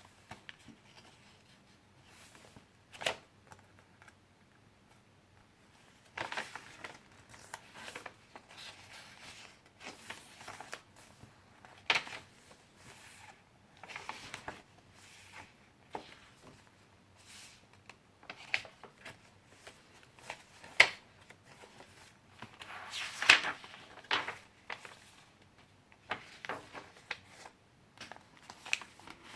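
Pages of handmade junk journals being turned and handled: irregular paper rustles and flaps, with a few sharper taps.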